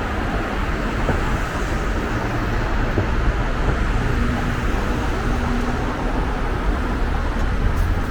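Road traffic going by, a steady rumble of car engines and tyres, with one engine's low hum coming through about halfway through.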